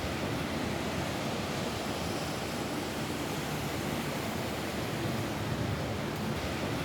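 Rain falling steadily on a roof.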